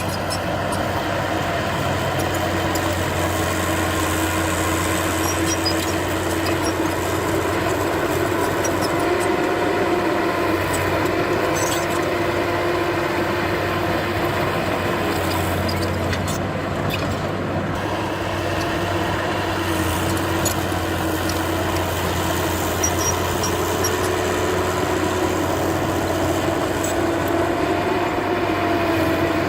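Heavy diesel engine of earthmoving machinery running steadily, its pitch wavering a little now and then.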